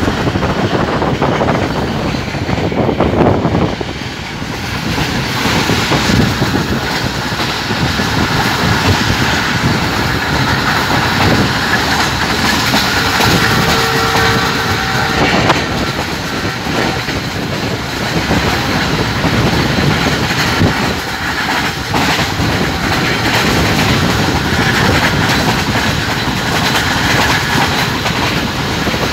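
Train running at speed, heard from a carriage side window: a loud, steady rush and rumble of wheels on rails, with many clicks from the track.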